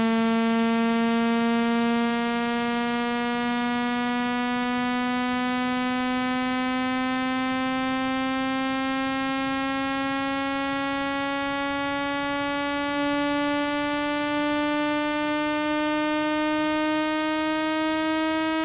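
Electronically generated speaker-cleaning tone: a steady buzzing tone rich in overtones, gliding slowly upward in pitch, played to vibrate water and dust out of a phone speaker.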